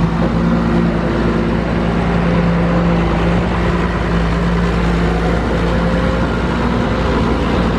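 A heavy construction machine's engine running steadily, a constant low hum.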